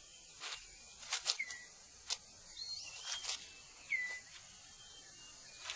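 A few sharp clicks and rustles of leaf litter as a six-plumed bird of paradise clears its display ground. Short whistled bird calls come in between, a couple sliding down in pitch and one rising.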